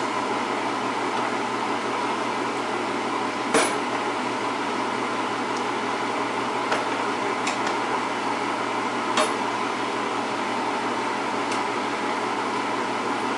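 A serving utensil clinking lightly against a pan and bowl a handful of times, the clearest about three and a half seconds in, as mushrooms are spooned out, over a steady background hiss.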